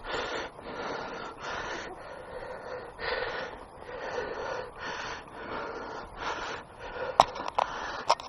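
A hiker breathing hard in repeated heavy breaths close to the microphone. A few sharp clicks or snaps come near the end.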